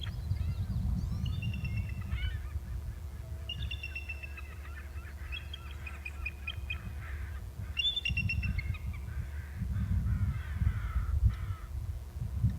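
Two birds calling back and forth in several bouts of quick, repeated high-pitched notes, with rougher chattering calls between them.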